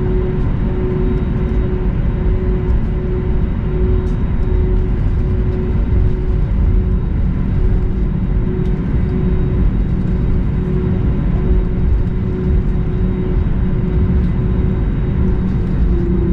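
Steady low rumble of an Airbus A320neo airliner heard from inside the cabin on the ground after landing, with a faint hum pulsing on and off over it.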